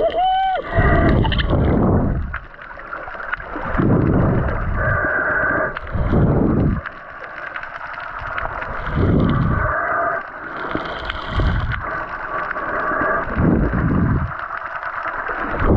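Water gurgling and rushing around an underwater camera in repeated surges every one to three seconds, as a spearfisher swims.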